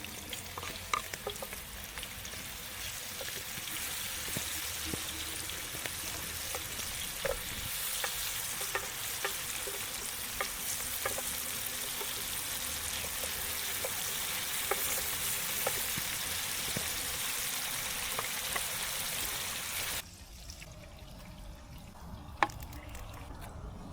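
Food frying in hot oil in a pan, a steady sizzle with scattered small pops. It stops abruptly about 20 seconds in, leaving quieter crackles and one sharp click.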